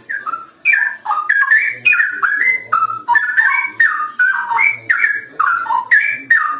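Straw-headed bulbul (cucak rowo) singing a long, rich phrase of loud, fluty, gliding warbled notes in quick succession, then cutting off suddenly.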